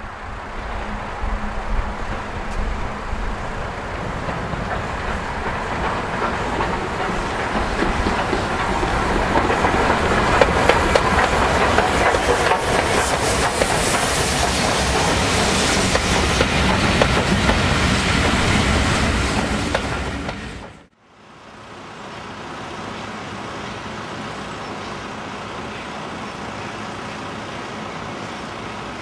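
A steam-hauled passenger train running past at close range, its coaches' wheels clattering over the rail joints. The sound builds to a peak and then fades as the coaches roll by, and about twenty seconds in it cuts abruptly to a quieter steady rumble.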